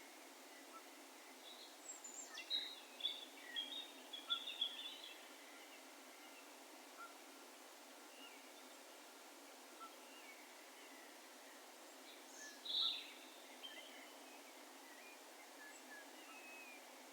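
Distant wild bird calls over a steady faint background hiss. A run of short high chirps with a downward-sweeping call begins about two seconds in, and one louder call comes near the middle.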